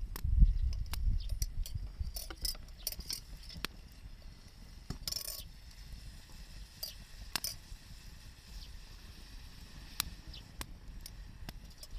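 Wood campfire crackling, with scattered sharp pops and clicks at irregular intervals and a low rumble during the first couple of seconds.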